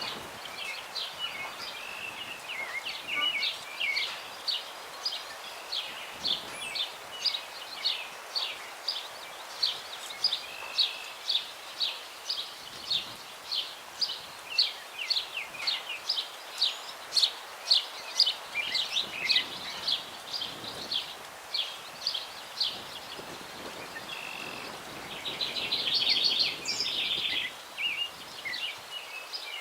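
A songbird repeating one short, high call note over and over, about two a second, over a steady breeze hissing through the trees; near the end a burst of fuller, busier bird song takes over.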